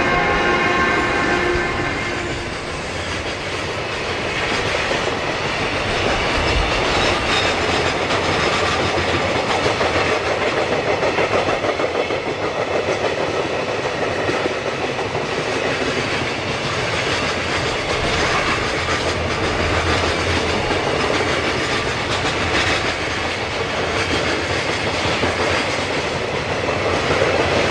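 Freight train hauled by an EH500 electric locomotive passing on a steep upgrade, its wheels clattering over the rail joints as the wagons roll by. A steady pitched tone over the rumble at the start fades out about two seconds in.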